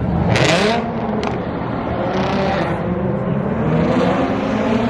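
Car engine running and revving, with two short louder surges.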